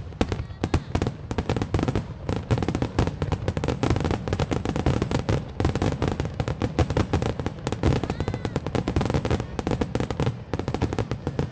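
Aerial fireworks going off in a rapid, unbroken barrage of bangs and crackles.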